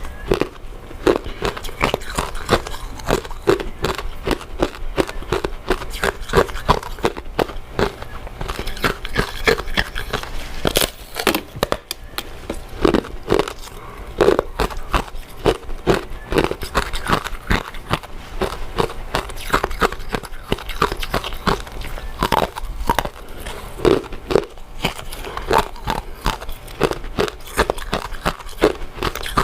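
Close-up chewing and mouth sounds of someone eating soft, chewy glutinous rice desserts: a dense, irregular stream of quick sticky clicks and smacks.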